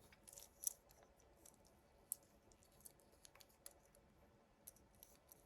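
Near silence with faint, scattered clicks and taps of a small plastic toy figure being handled.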